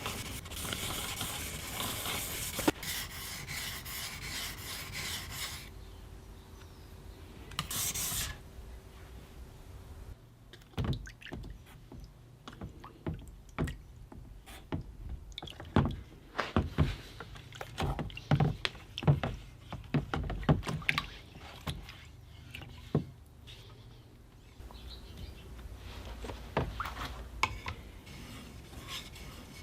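Hand work on a rusty knife: rubbing strokes at the start and again near the end, with a long run of irregular sharp taps and knocks in between.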